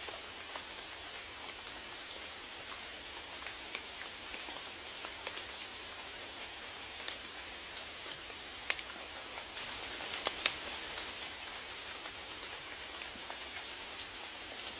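Steady rain, an even hiss with many scattered raindrop ticks on a hard surface, a few louder drops about two thirds of the way through.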